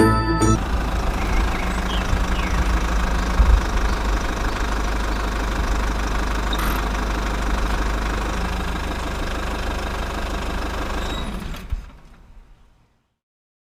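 Mini diesel engine driving a small water pump, running steadily, then fading out about twelve seconds in. A snatch of music is heard at the very start.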